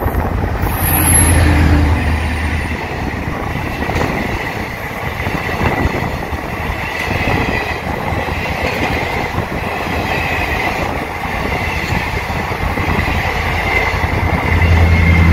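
DEMU (diesel-electric multiple unit) train passing close by. A low drone comes as the front car goes past in the first couple of seconds. Then the coaches roll past with a steady rumble of wheels on rail and a thin high squeal, and a low drone swells again near the end.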